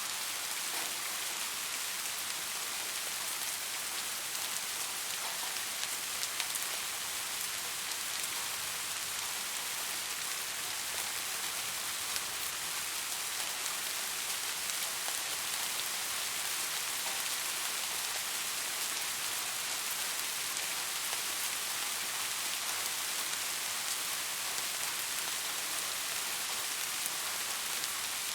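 Steady rain falling, a constant hiss with many fine drop patters.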